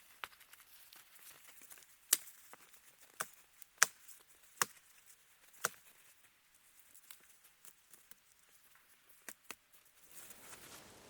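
Campfire wood crackling: sharp, irregular pops spaced out over a quiet background, the loudest about two and four seconds in. A soft rushing noise comes in near the end.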